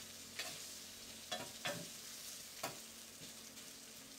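Ginger, garlic and pork sizzling as they sauté in a 12-inch electric skillet, a steady frying hiss. Four short scrapes of a stirring utensil on the pan come in the first three seconds.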